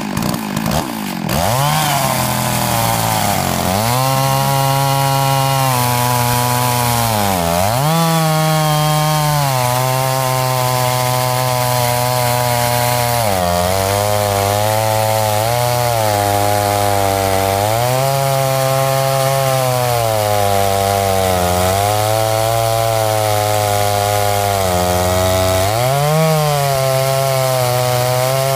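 Chainsaw on a chainsaw mill, run at high throttle while ripping lengthwise along a log. It revs up in the first couple of seconds, then its engine pitch sags and recovers about every four seconds as the cut loads it.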